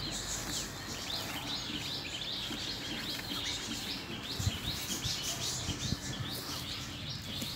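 Small birds chirping, a dense run of short, high, repeated calls, with a few low knocks from about four and a half seconds in.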